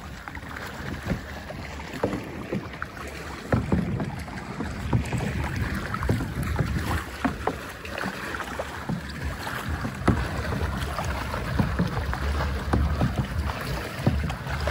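Water sloshing and splashing, with many small sharp splashes, and wind buffeting the microphone.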